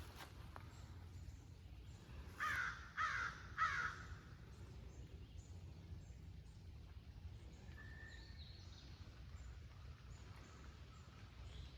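A bird gives three loud, harsh calls in quick succession about two seconds in, followed by a few faint, short bird chirps.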